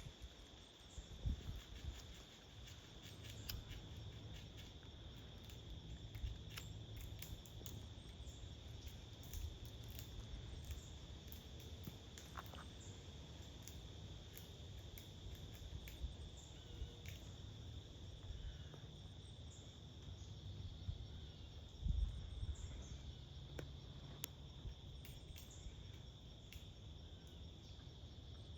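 Insects singing in a steady high-pitched drone, with scattered light ticks and a low rumble underneath. A soft low thump comes about 22 seconds in.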